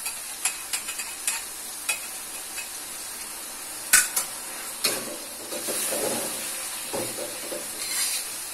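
Spice paste and sweet soy sauce (kecap manis) frying in a metal wok with a steady high sizzle, while a metal spatula scrapes and taps against the pan as it is stirred. A sharp clank of the spatula about four seconds in is the loudest sound, and longer scraping strokes follow.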